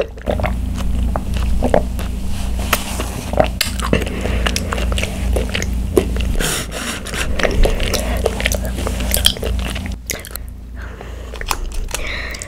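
Close-miked chewing of chewy bubble tea tapioca pearls: a steady run of small wet clicks and squishes.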